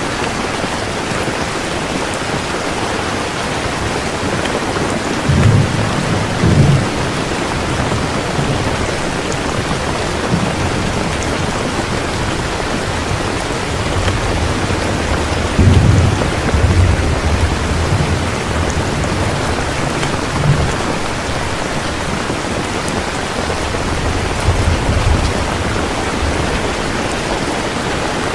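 Heavy rain pouring steadily, with low rolls of thunder rumbling in and out several times; the loudest rolls come about a fifth of the way in and just past the middle.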